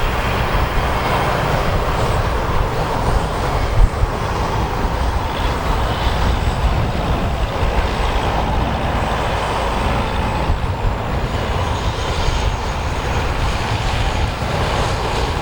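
Wind buffeting the microphone in a steady rumble, with a faint high whine that slowly drops in pitch.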